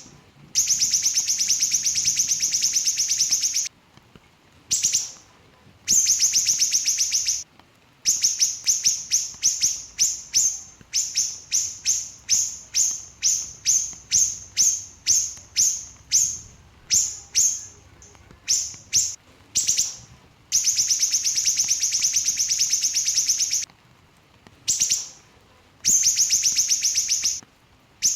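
Small siri-siri bird singing loudly in rapid bursts. Long, dense, fast trills of a second or more alternate with runs of short sharp notes, about two or three a second.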